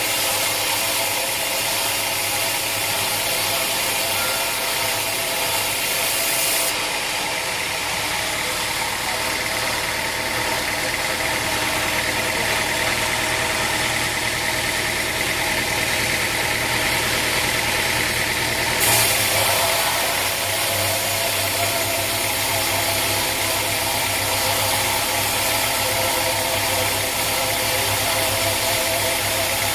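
Sawmill machinery running steadily, an engine-like drone with a steady hum; the sound changes abruptly twice, about a quarter of the way in and again about two-thirds of the way through.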